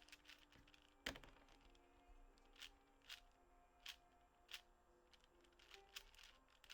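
Faint, sharp clicks of a 4x4x4 puzzle cube's layers being turned, irregularly about once or twice a second, the loudest about a second in. Faint steady tones run underneath.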